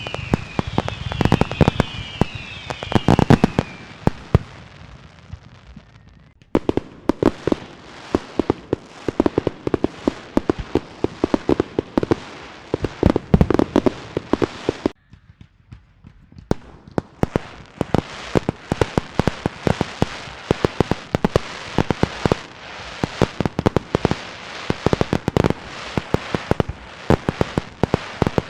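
Fireworks: a few falling whistles with low booms in the first few seconds, then long runs of rapid, sharp cracks like a string of firecrackers going off. The cracking breaks off for about two seconds around the middle, then starts again.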